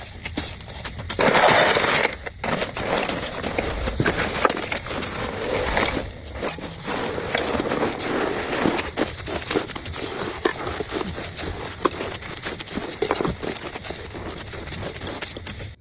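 Dense crackling and crinkling with many small clicks, and a louder rustling burst about a second in.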